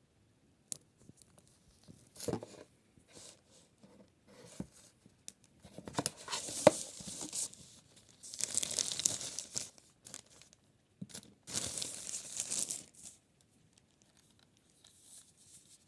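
Tearing and crinkling handling noise in three bursts of a second or two each, with scattered clicks in between.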